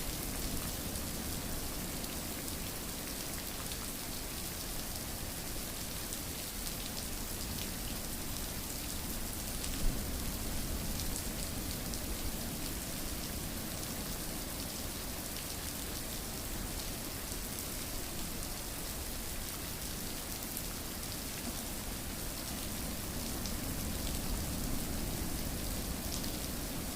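Steady rainfall pattering on a surface, with a fine crackle of individual drops, used as sleep white noise. One sharp louder drop or tick about ten seconds in.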